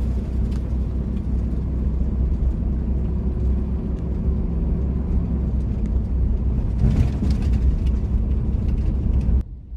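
Vehicle driving along a road: steady low engine and tyre rumble, which drops away abruptly near the end.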